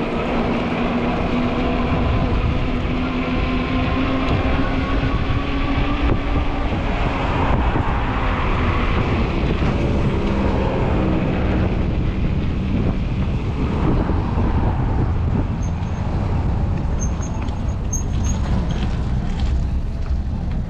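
Strong wind buffeting the microphone while riding a fat-tire e-bike, a dense rushing noise throughout. Under it is a droning hum that slowly sags in pitch over the first several seconds.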